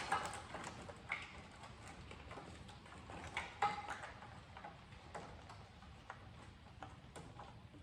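Scattered light clicks and knocks, irregularly spaced, from car parts and hand tools being handled during work on a stripped-out car.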